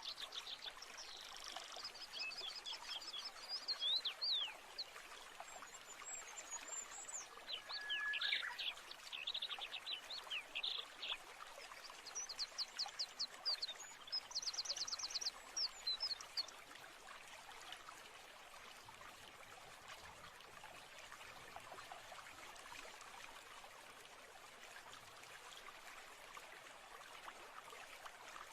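Songbirds chirping and trilling over a steady rush of flowing water; the bird calls come thick in the first half, including a fast rattling trill, then stop, leaving only the water.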